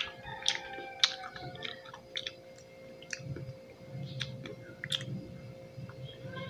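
A person chewing fresh pineapple: irregular wet smacks and sharp clicks, most of them in the first two seconds and again around four to five seconds in.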